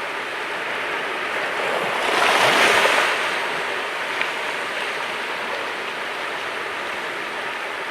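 Sea waves washing against the shore, a steady rushing of water with one wave breaking louder about two seconds in, then settling back to a constant wash.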